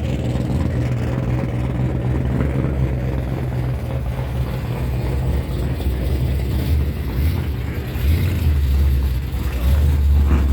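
Car engine idling with a deep, steady rumble that grows louder about eight seconds in.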